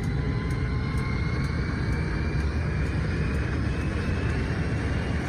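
Jet engine of a jet-powered drag vehicle running at full power: a heavy steady rumble with a thin turbine whine slowly rising in pitch.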